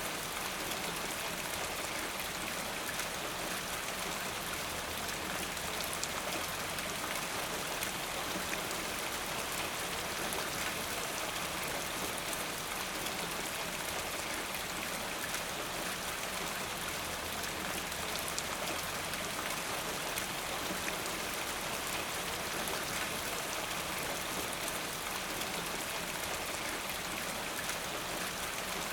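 Steady rain falling, a dense even hiss of drops with fine scattered patter.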